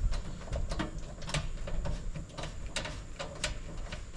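Irregular light clicks and scrapes of hand work on an electrical breaker panel, over a low rumble.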